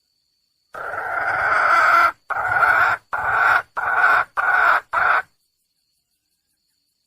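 Wild red junglefowl hen calling for a mate: one long harsh call that grows louder, then five shorter calls in quick, even succession.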